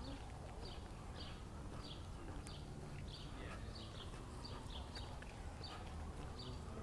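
Footsteps walking on a park path, about two steps a second, over a steady low city rumble.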